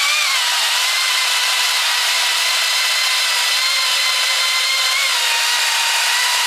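Electric chainsaw running steadily at high speed, a high motor and chain whine with a brief small rise in pitch near the start and again about five seconds in.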